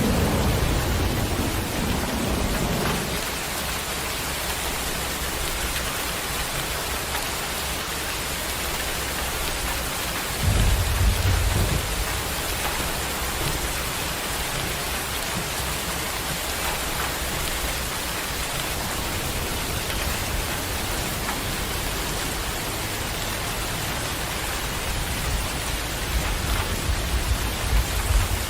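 Steady rain with rolls of thunder: a low rumble at the start that dies away over about three seconds, another short, louder rumble about ten seconds in, and more rumbling near the end.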